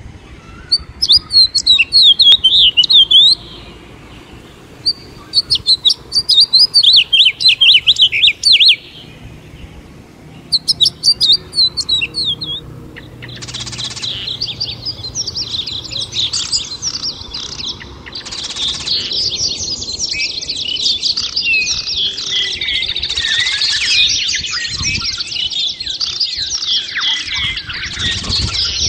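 A nearby bird sings loud phrases of rapid repeated high notes, each a few seconds long with pauses between, three times over the first twelve seconds. Then a dense chorus of many birds chirping takes over and grows louder toward the end.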